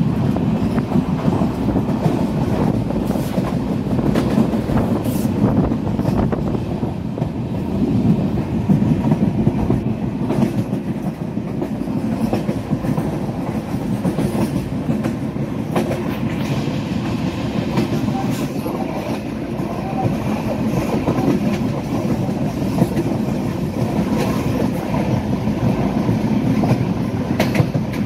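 Passenger train running, heard from a coach window: a steady rumble of wheels on the rails with occasional faint clicks.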